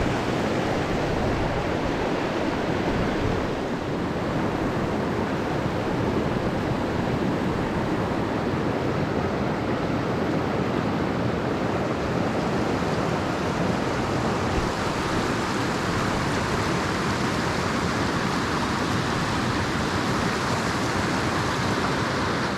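Mountain stream rushing steadily, a constant loud wash of water.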